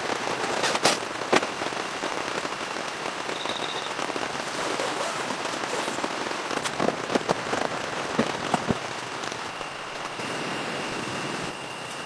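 Steady rain, with scattered sharp drops tapping louder on a nearby surface, a few of them about a second in and a cluster between six and nine seconds in.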